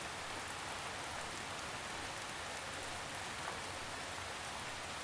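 Steady rain falling in a forest: an even hiss of many small drops, with a few faint separate drips.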